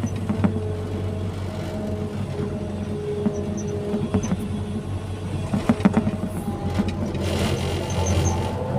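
Excavator's diesel engine running steadily with a whine that shifts in pitch, and a few sharp knocks about six seconds in.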